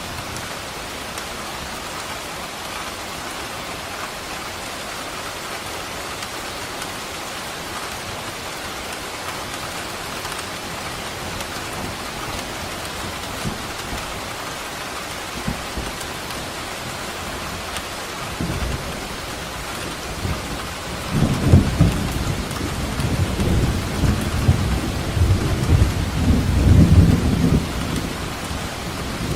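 Steady rain falling, with a long roll of thunder that builds in about two-thirds of the way through, rumbles loudest for several seconds and fades near the end.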